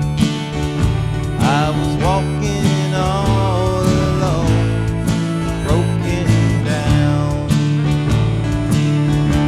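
Country music instrumental passage on guitar, with steady bass notes. From about a second and a half in, a lead instrument plays sliding, bending notes.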